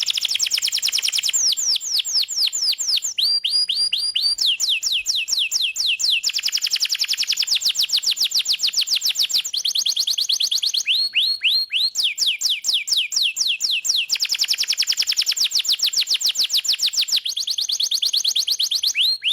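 Domestic canary singing a long, fast song of rapid trills. Each phrase is a run of quickly repeated sweeping notes, and the bird switches to a new trill type every second or two without pause.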